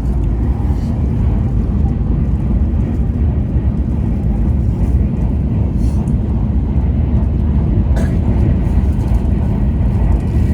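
Taiwan High Speed Rail bullet train running at speed, heard from inside: a steady, loud low rumble of wheels on track with no letup. There is one short click about eight seconds in.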